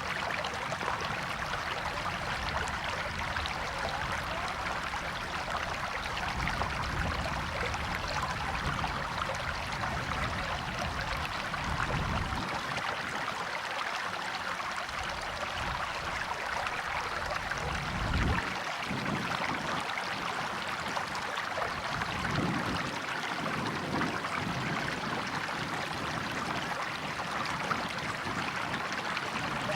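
River water flowing and splashing over rocks, a steady rushing stream, with a few brief low rumbles in the second half.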